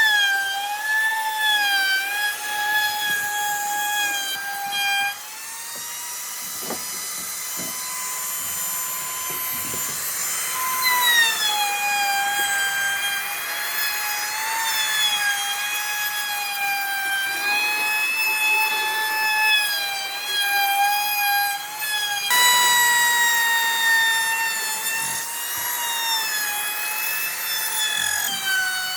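An electric power tool's motor whines steadily while working wood. Its pitch sags as it bites into the wood and rises when it runs free, as it does about a fifth of the way in and again about three-quarters through.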